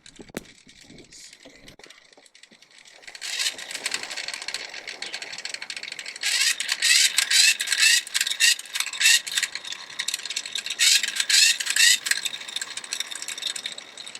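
Rattling and clicking of plastic and rubber vacuum-line parts being handled and worked loose under the hood. It is sparse at first, grows dense about three seconds in, and comes in loud clusters of quick clicks in the middle and again near the end.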